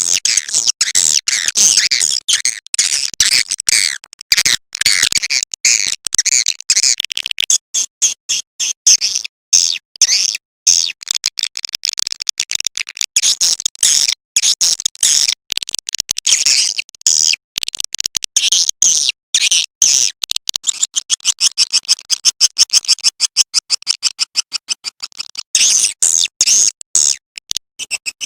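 Swiftlet calling-sound recording of the kind played to lure edible-nest swiftlets: dense, high twittering chirps mixed with rapid clicks. About two-thirds of the way in it becomes a fast, even train of clicks, and the chirps return near the end.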